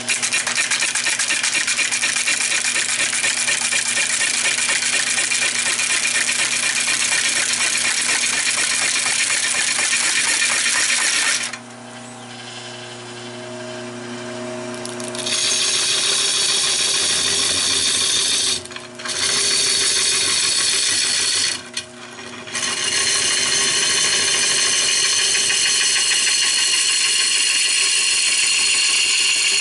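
Turning gouge cutting into fatwood on a spinning wood lathe, a loud steady scraping of the tool on the wood over the lathe motor's hum. About eleven seconds in the tool comes off the wood for a few seconds, leaving only the motor hum, and the cut breaks off twice more, briefly, later on.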